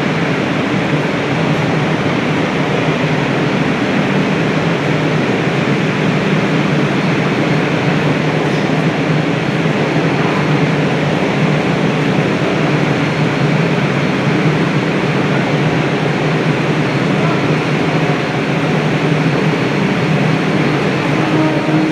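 Indian AC suburban local train running: a steady noise of wheels on rails with a low steady hum underneath, unchanging throughout.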